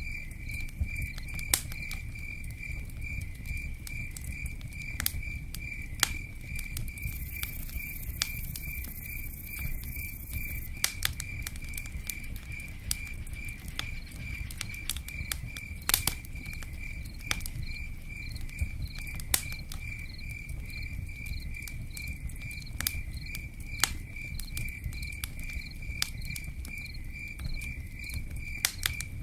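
Campfire crackling with scattered sharp pops over steady pattering rain, while an insect, likely a cricket, chirps in an even high pulse about two to three times a second throughout.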